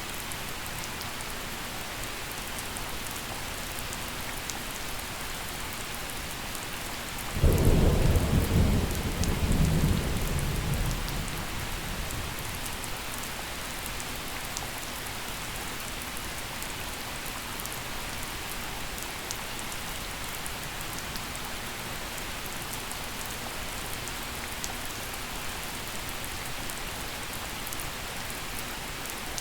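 Steady gentle rain falling, with one clap of thunder about a quarter of the way in: a sudden deep rumble that rolls for a few seconds and fades back into the rain.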